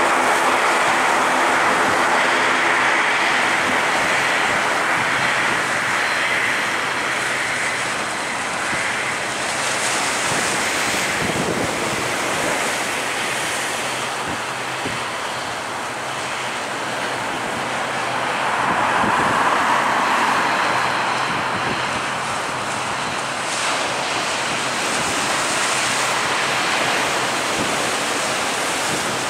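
Airbus A320-232's IAE V2500 jet engines during approach and landing: a continuous loud rush of engine noise, with steady engine tones that fade over the first few seconds. Wind buffets the microphone.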